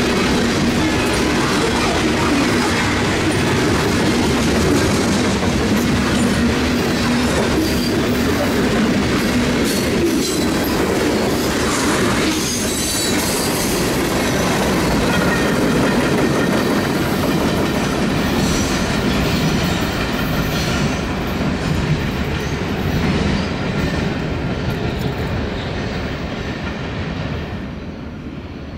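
Freight train cars (tank cars and covered hoppers) rolling past at close range, wheels clacking over rail joints with some wheel squeal. The sound fades over the last few seconds as the end of the train moves away.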